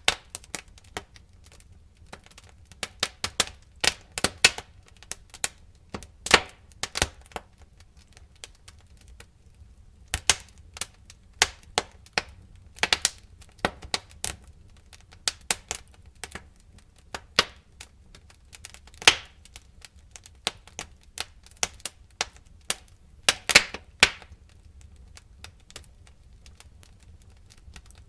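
Wood fire crackling: irregular sharp pops and snaps, some in quick clusters, over a faint low rumble of the burning.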